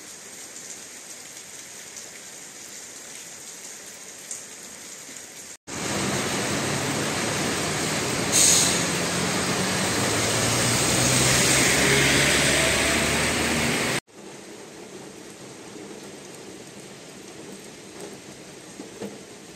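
Rain falling, a soft steady hiss with occasional drips. For about eight seconds in the middle a much louder rushing noise with a low hum takes over, then the soft rain returns abruptly.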